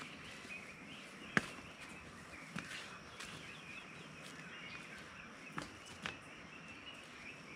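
Footsteps on a forest trail: a few sharp, separate steps or scuffs stand out, over a faint steady background of forest ambience.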